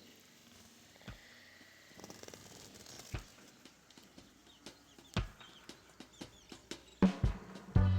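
Aseel chickens clucking faintly, with scattered sharp taps. Music starts about seven seconds in.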